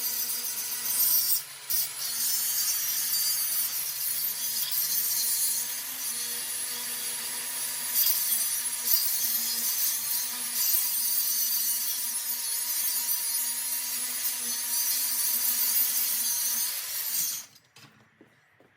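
Big electric grinder grinding down a fresh weld bead on a steel log-splitter wedge, a steady loud grind with a couple of brief dips that cuts off abruptly near the end.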